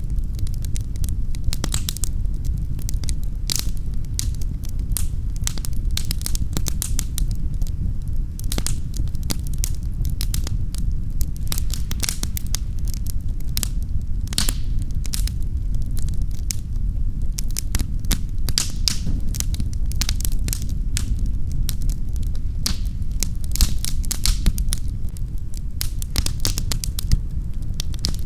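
Wood fire crackling and popping in a fireplace: irregular sharp crackles over a steady low rumble of flames.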